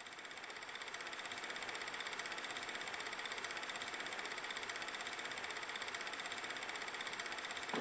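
A steady, fast, mechanical-sounding rattle or buzz, fading in over the first second and then holding level.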